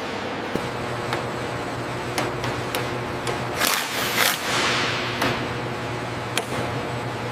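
Steady hiss and low hum broken by scattered sharp clicks and knocks, with a brief louder rush of noise about four seconds in.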